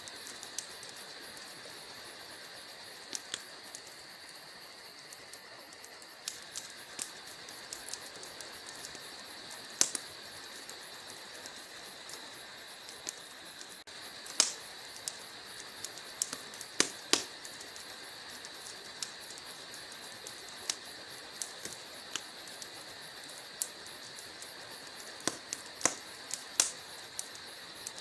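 Wood logs burning in a fireplace, crackling with irregular sharp pops over a steady high hiss. The loudest pops come about halfway through.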